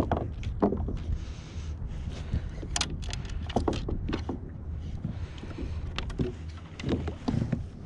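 Steady wind rumble on the microphone on an open-water kayak, with water against the hull and scattered small knocks and clicks from gear on the boat.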